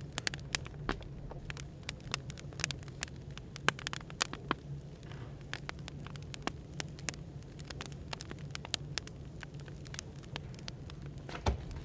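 Crackling wood fire, with irregular sharp pops and snaps, over a steady low hum and a soft background hiss of café white noise.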